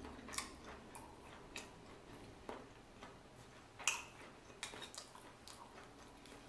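Quiet eating sounds: soft chewing of seafood with scattered small clicks, the sharpest about four seconds in.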